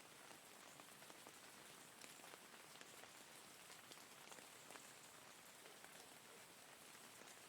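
Faint, steady rain: an even hiss dotted with many small drop ticks.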